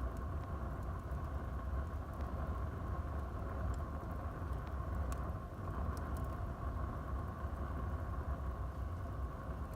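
Wood fire burning in a fireplace: a steady low rush of the flames with a few sharp crackles and pops from the burning wood scattered through it.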